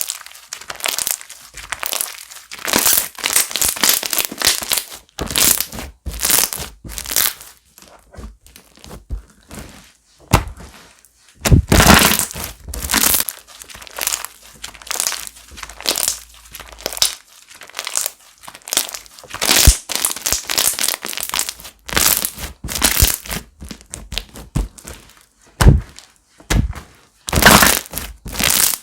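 Hands squishing, poking and stretching slime: a busy, irregular run of crackles, pops and soft crunches, some much louder than others.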